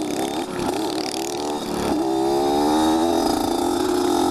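Small motorcycle engine running under way, its pitch dipping briefly near the start and then climbing as it revs up about two seconds in before holding steady.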